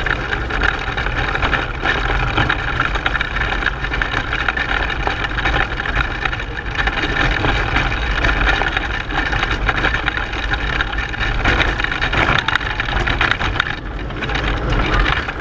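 A racing pedal car in motion, its tyres rolling and its chassis rattling over the road in a continuous, steady noise, with wind buffeting the microphone.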